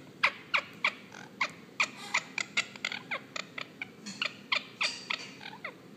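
Indian ringneck parakeet singing: a quick run of short, high, downward-sweeping chirps, about three or four a second.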